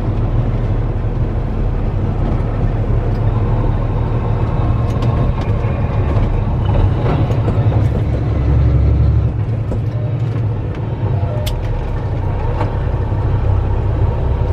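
Kenworth T660 semi-truck's diesel engine running with road noise as the truck drives, heard from inside the cab; the low rumble swells briefly about eight seconds in, with a sharp click near the end.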